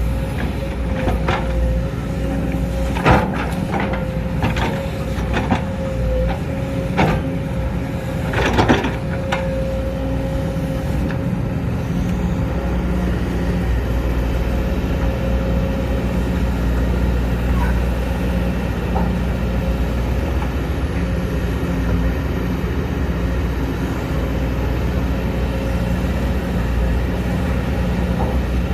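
Sumitomo SH210 hydraulic excavator's diesel engine running steadily under load with a steady hydraulic whine. Several sharp knocks and clanks come in the first nine seconds or so.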